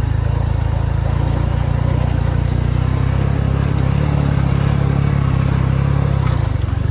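A motorcycle engine running steadily, with a fast, even pulsing low sound.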